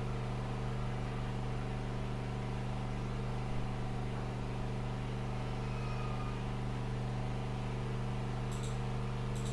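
A steady low mechanical hum at an unchanging pitch, with two faint brief clicks near the end.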